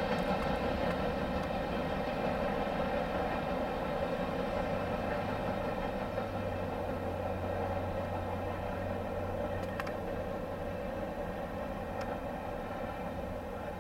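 Freight train running past, a steady rumble with a constant hum that slowly fades as the train moves away.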